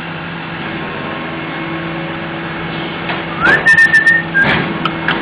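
A small pet parrot gives one short whistle about three seconds in. The note slides up and then holds a steady high pitch for about a second, with a few sharp clicks around it. A steady low hum runs underneath.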